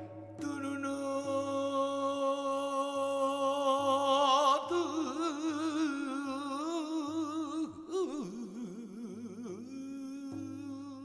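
Korean gueum: one voice sings a slow melody on wordless syllables, unaccompanied, holding long notes with a wide, wavering vibrato. Its pitch drops lower about eight seconds in before it settles on a held note.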